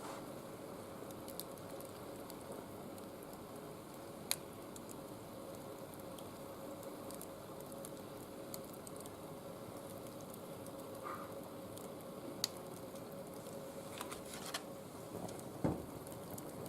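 Small wood fire burning with a steady low hiss and scattered sharp crackles and pops, several of them close together near the end.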